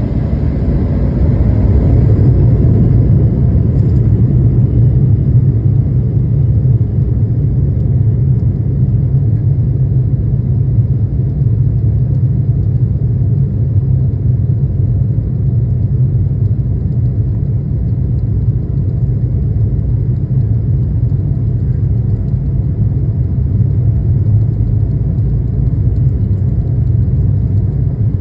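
Airliner cabin during takeoff: a steady, loud, low rumble of jet engines and airframe that swells about two seconds in and then holds.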